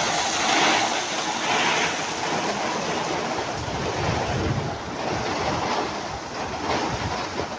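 Heavy rain pouring down in torrents, a steady dense hiss that swells a little in the first couple of seconds.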